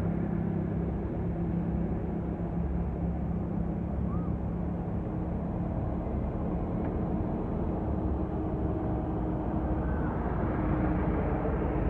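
A steady engine hum over a constant noisy background, with a few faint short chirps.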